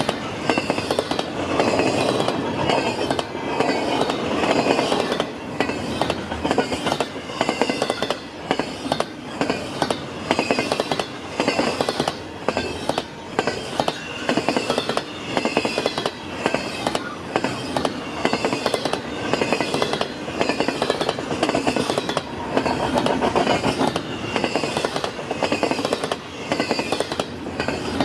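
Freight train cars rolling past, their wheels clacking in a steady rhythm over the rail joints, with a faint high squeal from the wheels.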